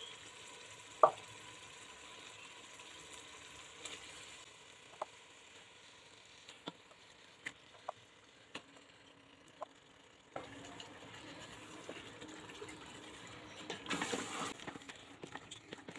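Beef and fried spice paste sizzling faintly in a steel cooking pot, with a sharp knock about a second in and scattered light clicks of utensils. The sizzle grows louder about ten seconds in, and near the end the meat is stirred, with a noisier burst of stirring and clicks.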